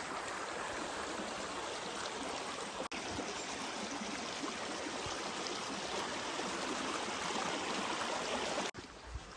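Steady rushing of flowing water from a stream or waterfall, with a momentary break about three seconds in; it drops away suddenly near the end.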